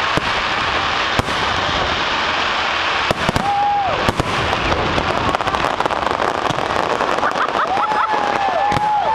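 Fireworks display: dense crackling and popping with a string of sharp bangs. A few held high whistle-like tones sound over it, at about 3 seconds and again near the end.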